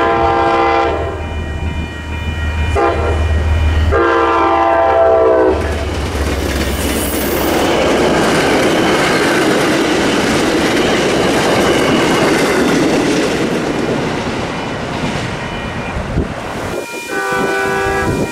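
Diesel locomotive's multi-chime horn sounding a long blast, a short tap and another long blast over a low engine rumble, then the train passing close by with loud rolling wheel noise for about ten seconds. The horn sounds again near the end.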